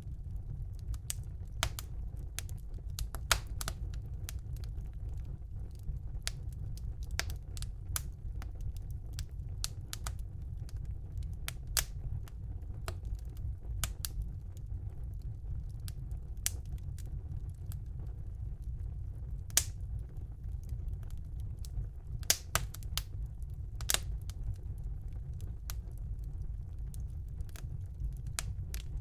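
Wood fire burning in a fireplace: irregular sharp crackles and pops over a steady low rumble, with a handful of louder pops.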